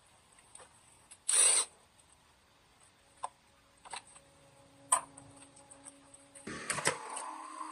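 Hand tools and metal parts being worked: a short loud scrape about a second in, then a few sharp separate clicks and knocks, and a brief clatter near the end.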